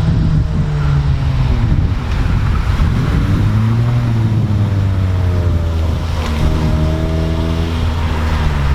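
Car engine under way, its pitch climbing as it accelerates and dropping back at gear changes, over steady road and wind noise.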